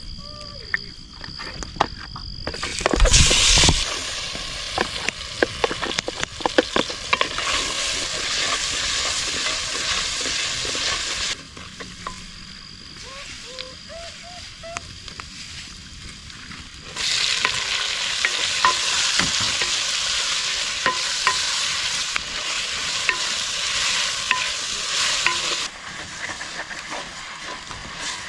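Food frying in hot oil in a pan over a wood fire, stirred with a utensil that clicks and scrapes against the pan. A loud sizzle flares up about three seconds in. The sizzling drops away for several seconds in the middle, then comes back strongly and eases off near the end.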